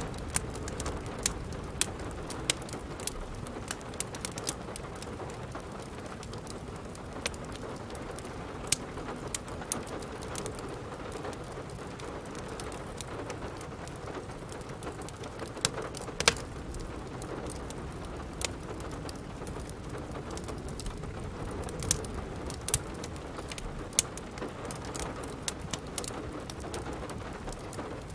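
Steady rain together with a crackling wood fire: a constant rain hiss under frequent sharp pops and snaps, a loud one about halfway through.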